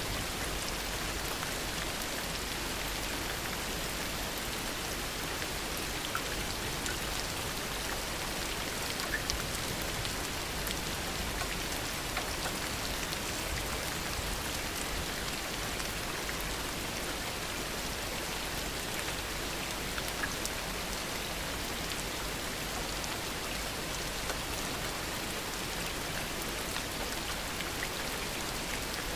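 Heavy rain falling steadily, a constant hiss with scattered sharper drop ticks here and there.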